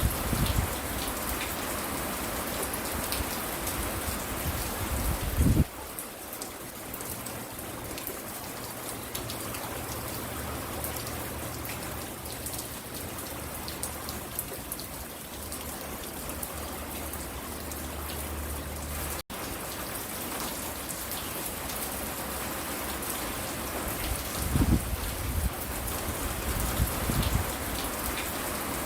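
Steady rain falling and spattering on hard surfaces. Low rumbles rise and fall near the start and again near the end, and the sound cuts out for an instant about two-thirds of the way through.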